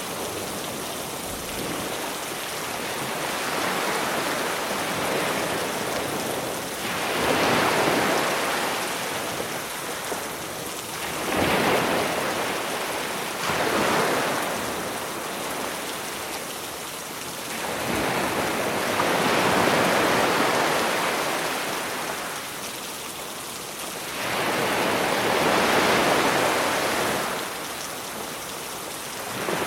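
Sea waves breaking and washing on the shore in surges a few seconds apart, over a steady hiss of rain.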